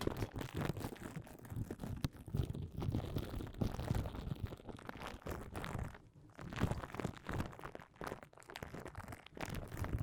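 Close-miked ASMR trigger sounds: dense crackling, crinkling and tapping right on the microphone, with a short lull about six seconds in.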